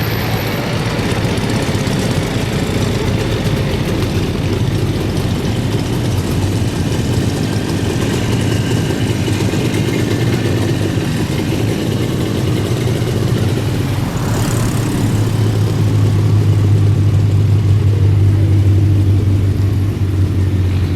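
Engines of veteran vehicles running steadily with a low hum, getting louder about three quarters of the way through.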